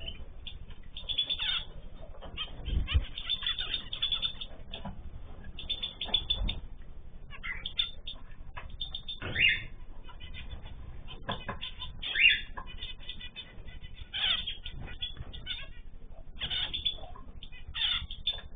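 Small cage birds chirping and calling over and over in short, sharp notes, with a couple of low thumps about three and six seconds in.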